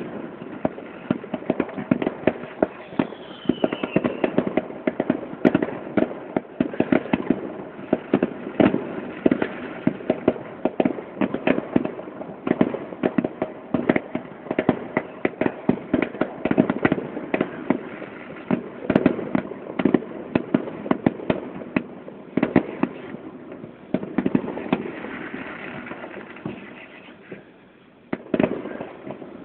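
Fireworks display: a rapid, continuous barrage of bangs and crackling that thins out and quietens near the end, with one last loud bang.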